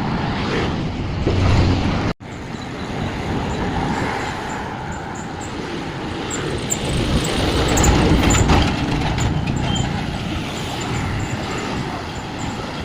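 Road traffic running past on a busy city road, a steady mix of vehicle engines and road noise, with the sound cutting out for an instant about two seconds in.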